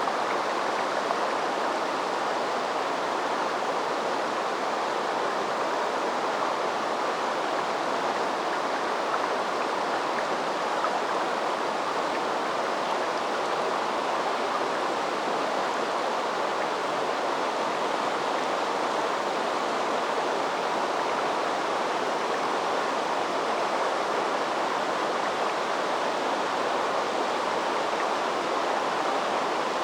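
River water flowing, a steady even rushing that does not change.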